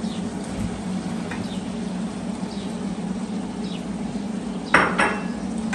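A bird calling over and over with short falling chirps, about one a second, over a steady low hum. Near the end come two sharp clinks a fraction of a second apart, like a utensil striking a pot.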